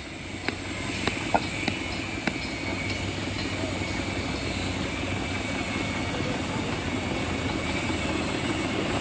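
Tractor engine running steadily, with several sharp knocks in the first two seconds or so.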